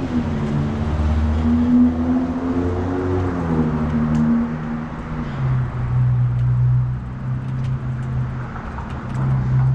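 A motor vehicle engine running close by, its steady hum dropping to a lower pitch about five seconds in.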